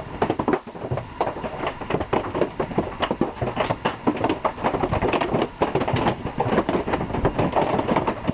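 Golf-ball-size hailstones pelting an RV, a dense, irregular clatter of hard impacts that does not let up.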